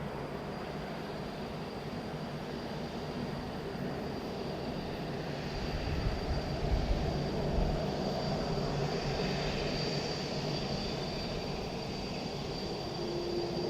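Jet airliner's engines passing low overhead: a steady high whine over a broad rumble, which swells with deep low-end noise about six to eight seconds in.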